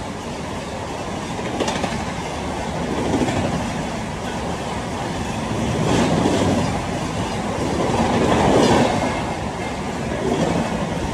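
A train passing on the rails, a dense steady running noise that swells and eases several times.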